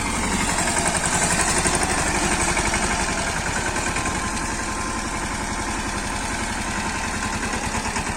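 Swaraj 717 tractor's small single-cylinder diesel engine running at a steady chugging beat, a little louder in the first couple of seconds.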